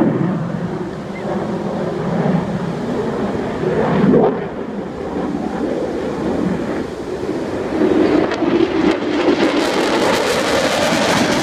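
Aircraft engine noise: a steady rumble that grows louder and brighter near the end, as a plane nears.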